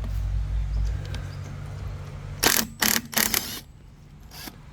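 Pneumatic or electric impact wrench (rattle gun) run in four short bursts about two and a half seconds in, on the excavator's sprocket bolts. Before that, a low steady hum fades out about a second in.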